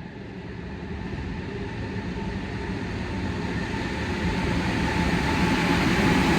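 Interior noise of an Alstom NS-16 metro car: a steady rumble and hiss with a faint whine, growing gradually louder.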